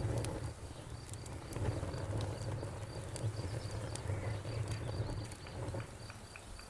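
Wood fire crackling with scattered sharp pops over a low, steady rumble, while a cricket chirps in a rapid, even pulse throughout.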